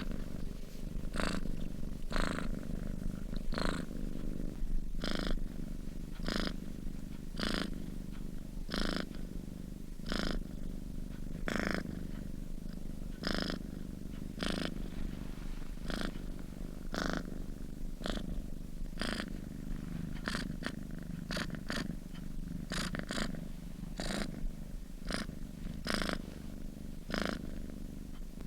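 Domestic cat purring steadily in its sleep: a continuous low rumble with a soft, breathy rasp a little more than once a second.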